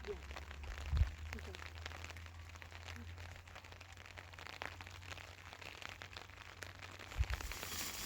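Heavy rain pattering steadily, many small drops ticking, over a low steady rumble, with a dull thump about a second in and another near the end.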